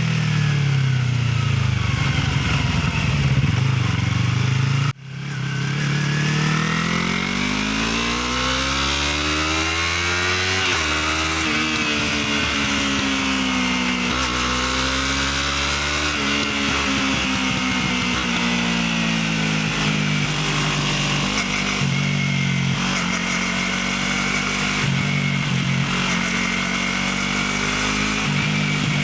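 Motorcycle with its stock exhaust, running under way, its engine note rising and falling as the bike speeds up and eases off. The sound breaks off briefly about five seconds in, then climbs again.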